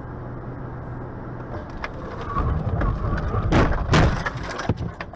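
Vehicle engine and road noise, then a run of sharp knocks and two very loud bangs about three and a half to four seconds in, with another shortly after, like a vehicle collision.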